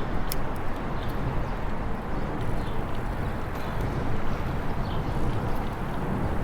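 Steady rumbling noise of an e-bike ride: wind and road noise on the microphone, with a few faint clicks.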